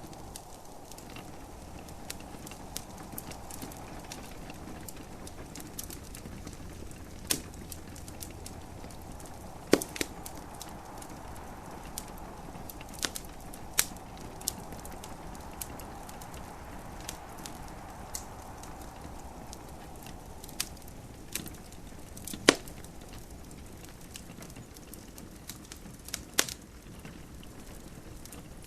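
Wood fire in a fireplace crackling, with scattered sharp pops and snaps, the loudest about ten seconds in and again about twenty-two seconds in. Under it runs a steady soft hiss of gentle rain.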